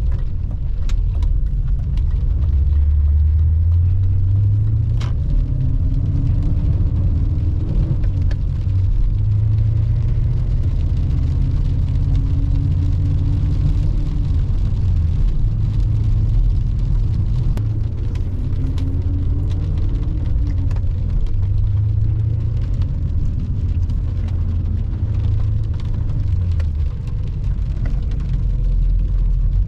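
BMW E39 M5's V8 engine under way, with a heavy low rumble. Its pitch climbs and drops back several times as the car accelerates and lifts off.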